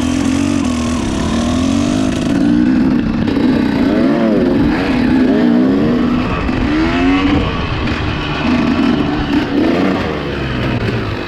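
Small dirt bike engine being ridden hard, revving up and falling back again and again as the throttle is opened and closed.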